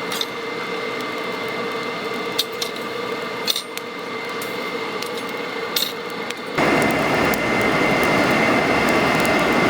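Workshop machinery running with a steady hum, with a few sharp clicks. About two-thirds of the way through it grows louder and fuller.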